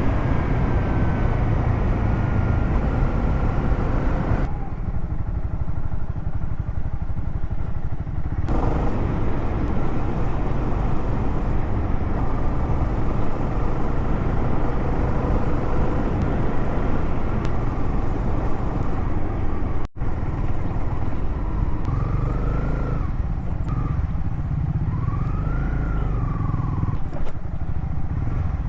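Motorcycle riding along a road: steady engine rumble mixed with wind and road noise. The sound cuts out for an instant about two-thirds of the way through.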